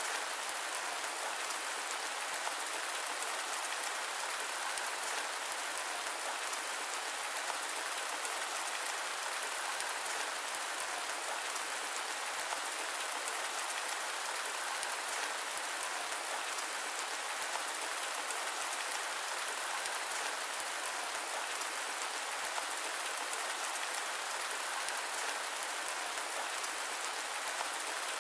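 Steady rain: a dense, even hiss of falling drops that does not change, with no thunder.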